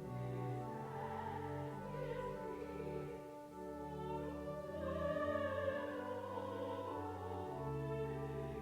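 Closing hymn: a voice holding long notes with vibrato over sustained instrumental accompaniment with a low bass line.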